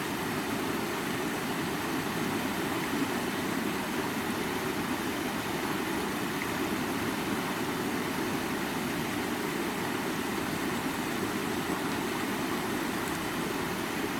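A stream's water running steadily, a constant rushing sound.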